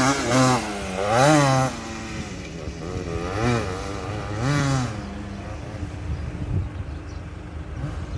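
Motocross dirt bike engine revving in sharp rises and falls, loudest in the first two seconds, with two more revs midway, then dropping to a lower, quieter rumble.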